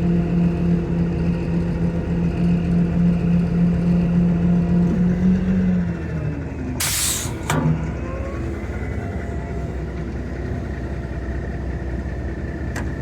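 Vehicle engine running steadily. Its pitch rises briefly and then drops about six seconds in as it slows, and there is a short, loud hiss about seven seconds in.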